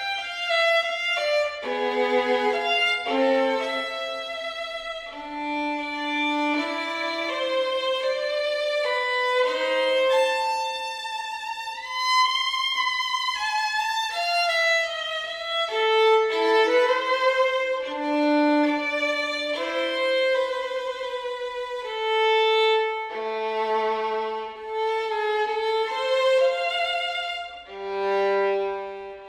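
Background music: a violin playing a slow melody, with notes held for about a second each.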